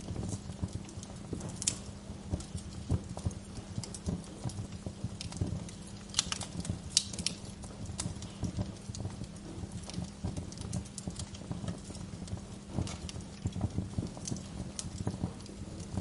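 Wood fire crackling in a fireplace, with irregular pops and snaps and a cluster of sharper pops about six to seven seconds in, over a steady low rumble.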